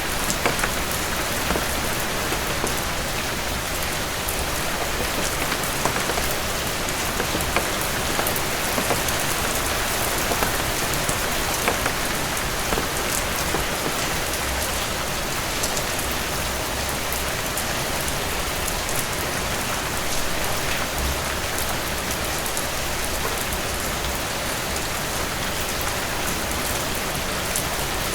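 Heavy rain falling steadily, a dense even hiss with many small sharp clicks and ticks scattered throughout.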